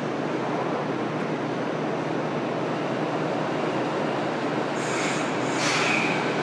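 Running noise of a JR Kyushu 303 series electric train heard inside motor car MoHa 303-3: a steady rumble of wheels and traction equipment under way. A short high squeal comes in about five seconds in.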